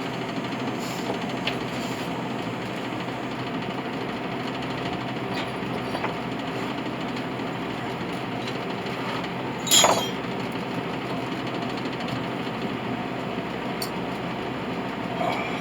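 A single sharp metallic clank with a brief ring about ten seconds in, over a steady rushing noise, with a few faint clinks from scrap brass being handled.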